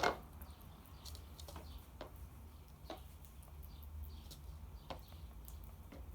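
Bird pecking at cat food: one loud sharp tap at the very start, then scattered single ticks of the beak a second or so apart.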